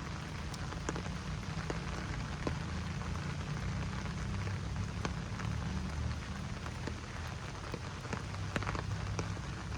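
Steady rain falling in a forest, with many individual drops ticking sharply over the hiss of the downpour and a steady low rumble underneath.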